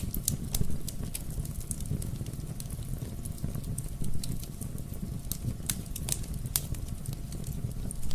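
Fireplace fire crackling, with sharp pops and snaps at irregular intervals over a steady low rumble of the flames.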